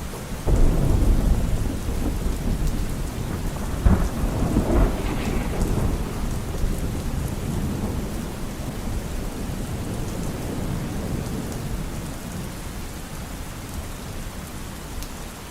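Steady rain with thunder: a low roll of thunder breaks in about half a second in, cracks more sharply about four seconds in, then rumbles off gradually under the rain.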